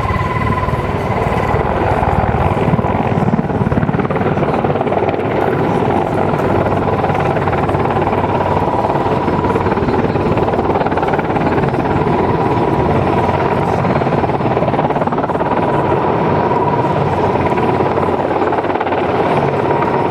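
Mi-26T2 heavy transport helicopter with its rotor and twin turboshaft engines running: a loud, steady rotor noise with a steady high whine through it.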